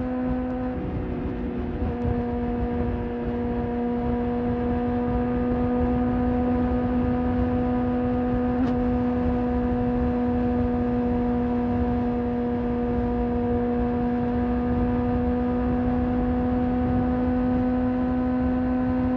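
Motorcycle engine running at steady, nearly unchanging revs while cruising, with a low rumble of wind and road noise underneath; the pitch steps slightly about a second in, then holds.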